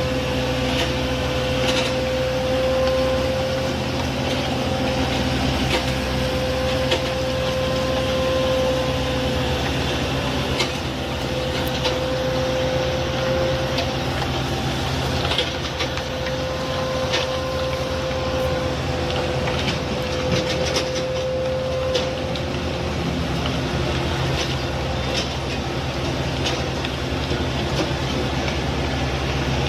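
Heavy road-paving machinery running: a steady engine drone with a steady high whine that comes and goes, and scattered clicks and knocks.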